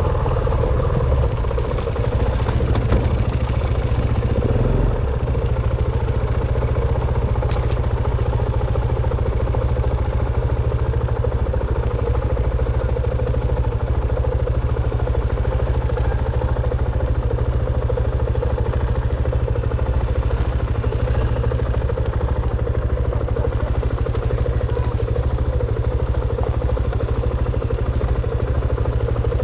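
Dirt bike engine running steadily, without revving up or down.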